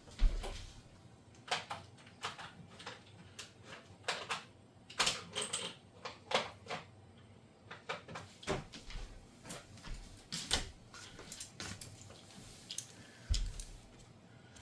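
Irregular light clicks and clatters of a driver and small bits being handled and swapped while bits are tried for size on a screw, with one sharper knock just after the start.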